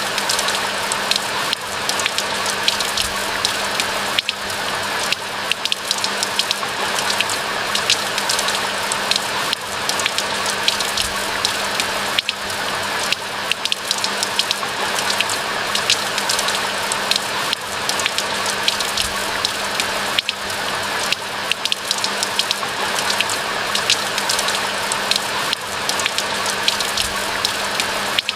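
Steady rain falling, with many sharp individual drop ticks over an even hiss.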